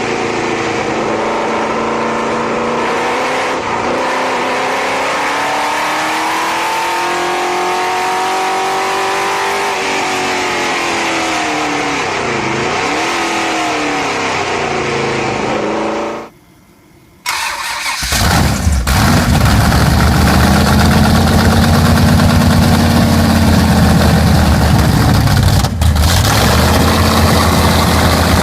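Muscle car V8 engines being revved in two clips. The first rises and falls in pitch repeatedly. After a brief silence about sixteen seconds in, a second, deeper and louder engine starts and revs up and down.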